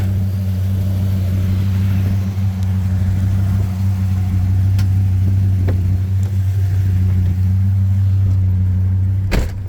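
Dodge Ram SRT-10's 8.3-litre Viper V10 idling steadily through an aftermarket MagnaFlow exhaust. A single sharp knock comes near the end.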